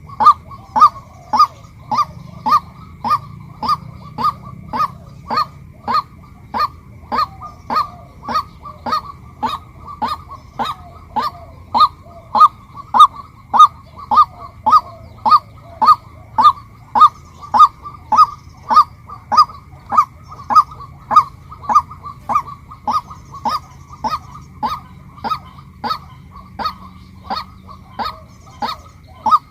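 Female white-breasted waterhen calling, a steady series of short, loud, same-pitched call notes at about two a second.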